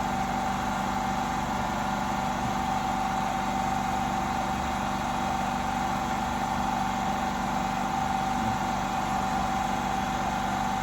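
Steady machine hum with a constant high whine, unchanging throughout.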